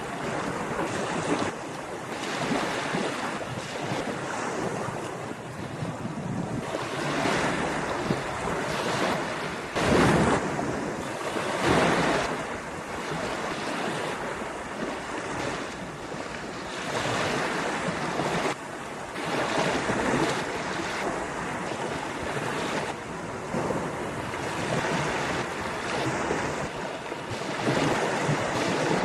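Ocean surf breaking and washing up a beach, a continuous rush that swells and ebbs, with the loudest waves crashing about a third of the way in. Wind buffets the microphone throughout.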